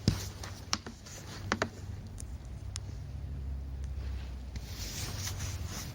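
Snow being brushed off a car: faint rubbing and scraping with a few scattered knocks, most in the first three seconds, over a low steady hum.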